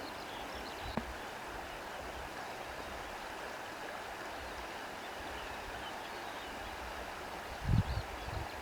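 Steady wash of sea waves and wind rustling through reeds, with a faint click about a second in and a brief low thump near the end.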